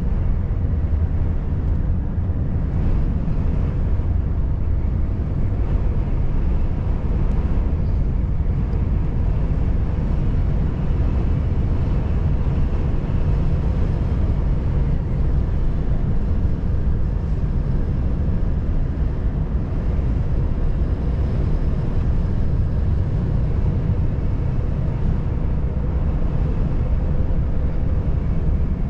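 Volvo FH540 truck driving at a steady pace: a constant low drone of its 13-litre straight-six diesel mixed with tyre and road noise, unchanging throughout.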